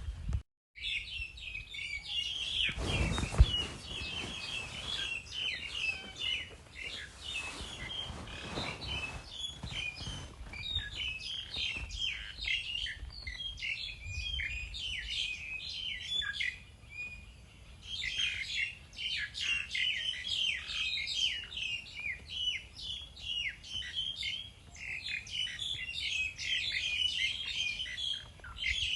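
A flock of small birds chirping and twittering in a dense, continuous chatter of short high calls, easing briefly in a lull around the middle. A loud thump sounds about three seconds in.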